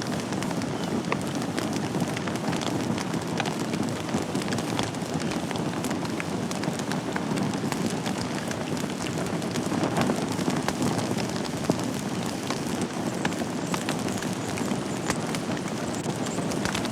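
Wood fire burning in a fireplace: a steady rush of flame with frequent small crackles and pops, one louder pop about twelve seconds in.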